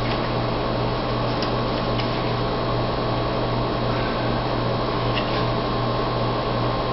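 Steady low hum and hiss of room noise, like a fan or air conditioner running, with a few faint light ticks.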